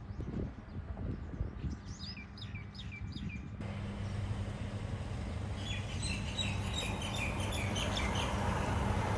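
Small birds chirping: a quick row of short falling chirps, then denser chirping in the second half, over a steady low rumble. The background noise steps up abruptly about a third of the way through.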